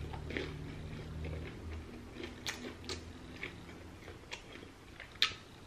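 A person chewing a mouthful of fried chicken wing, with scattered soft crunches and mouth clicks and one sharper click about five seconds in.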